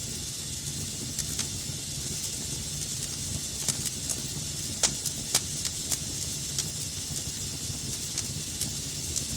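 Wood fire burning in a fireplace: a steady hiss and low rumble with scattered sharp crackles and pops, a few louder pops around the middle.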